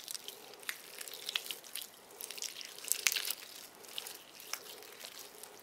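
Sticky, wet glitter putty being squeezed and stretched between hands, giving quiet, irregular little clicks and crackles. The putty is a homemade glue-and-glitter mix that never set into a proper slime.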